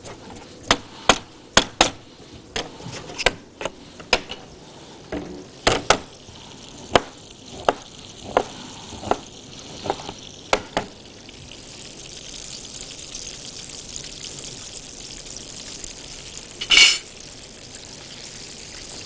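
A dozen or so sharp clicks and knocks of kitchen utensils, then oil sizzling steadily and growing louder as oat-crusted chicken escalopes fry in a pan. A single short, loud burst of noise comes near the end.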